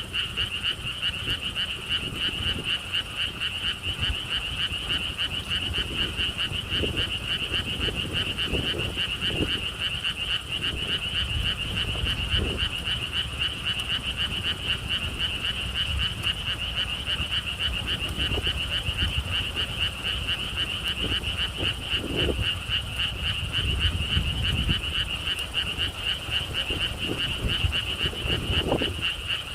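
A chorus of frogs calling without a break in one rapid, pulsing trill, with wind rumbling on the microphone underneath.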